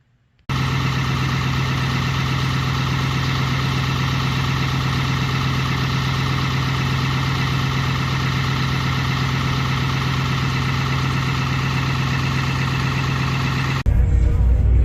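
A vehicle engine running at a steady speed, a constant drone with a strong low hum and many overtones, with no change in revs. It starts abruptly about half a second in and cuts off abruptly near the end.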